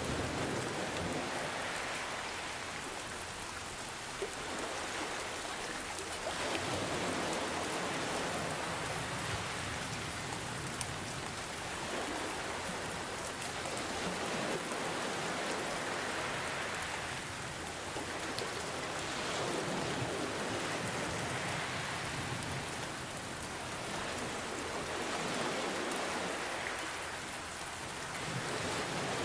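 Steady rain falling, mixed with ocean waves whose wash swells and recedes every five or six seconds.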